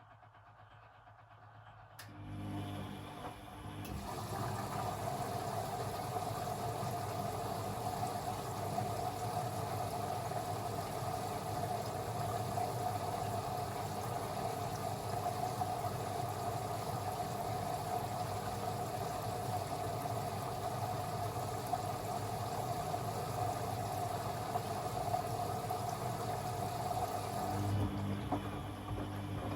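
Beko WA 1050 washing machine running: a low hum starts, swells about two seconds later into a steady machine sound with a constant whine, holds for over twenty seconds, then drops back to the hum and stops.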